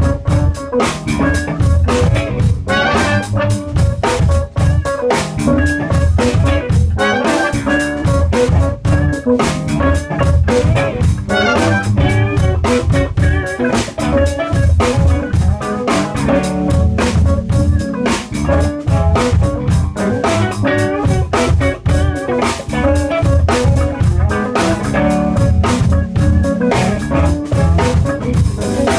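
A live band rehearsing a song: drum kit and guitar over a steady bass line, playing continuously with frequent drum hits.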